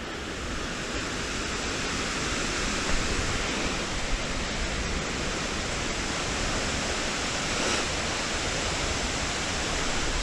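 Waterfall: a steady rush of falling water, growing a little louder over the first couple of seconds and then holding even.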